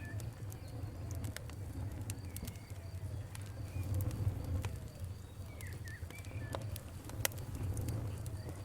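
Campfire crackling, with frequent sharp pops over a low steady rumble, and birds calling now and then.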